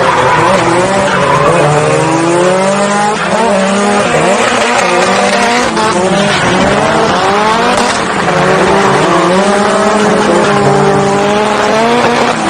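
Nissan Silvia S15 drift car's turbocharged SR20 engine revving up and down through a drift, pitch climbing and dropping repeatedly, with tyres squealing and skidding.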